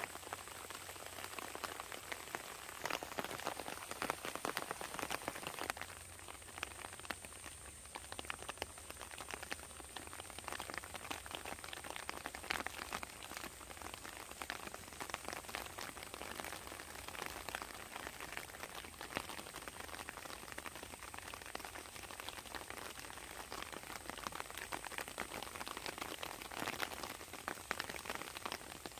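Rain falling on a small reservoir and the grass along its bank: a dense, steady crackle of drops on the water.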